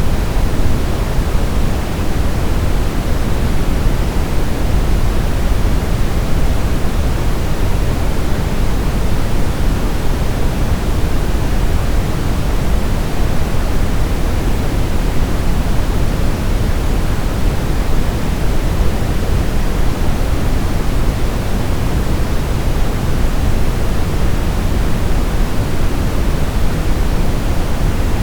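Steady brown noise: an even, unchanging hiss-like rumble weighted toward the low end, with no events or changes.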